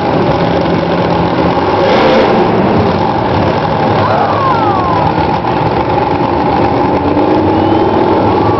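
Monster truck engine running with a steady deep drone, its pitch gliding briefly about four seconds in.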